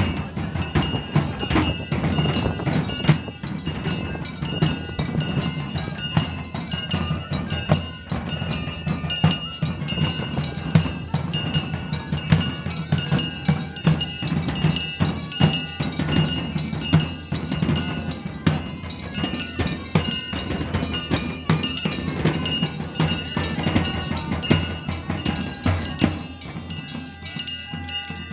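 Drum band playing a fast, driving beat on many drums, with pipes holding steady notes over it. The drumming eases off in the last second or so.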